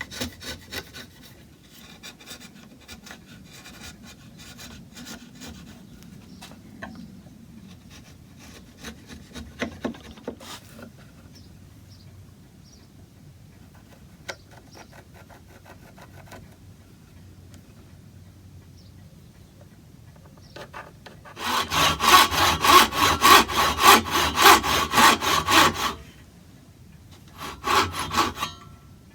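Faint scraping and light taps of hand tools on wood, then a saw cutting wood in rapid, even strokes for about four seconds, with a second short burst of sawing near the end.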